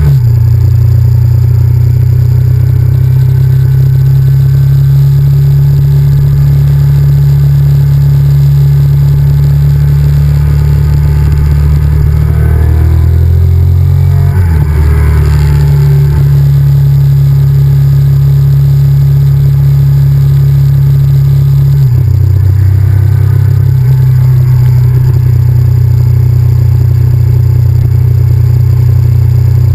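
Honda VTR1000F's 90-degree V-twin engine running under way, under a heavy low rumble. The engine note shifts in pitch about halfway through and steps again about three-quarters through.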